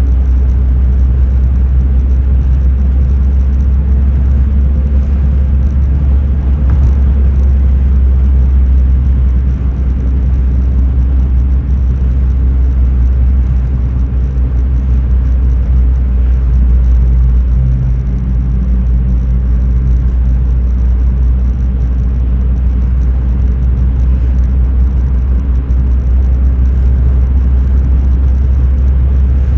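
Steady low rumble of a car heard from inside its cabin, a constant deep drone with no sudden sounds.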